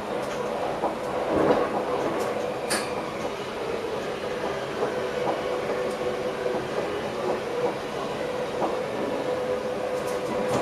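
An electric NS passenger train running along the track, heard from inside the driver's cab: steady running noise with a continuous hum and a few short clicks of the wheels passing over rail joints.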